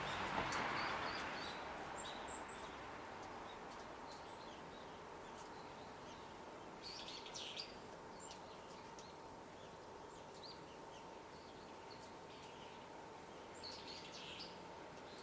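Faint, short, high bird chirps of small garden birds scattered over a steady background hiss, with two brief clusters of crackly noise, one about seven seconds in and one near the end.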